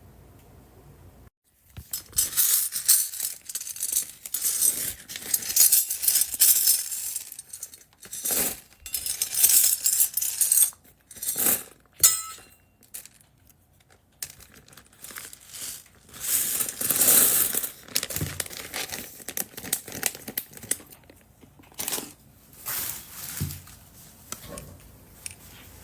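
Plastic bags rustling and crinkling as they are handled, with small plastic beads clinking and rattling in irregular bouts and brief pauses.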